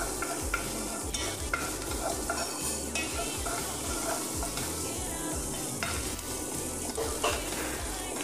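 Sliced onions, garlic, green chili and cumin and coriander seeds sizzling in ghee in a stone-coated pan, a wooden spatula stirring them with irregular scrapes against the pan.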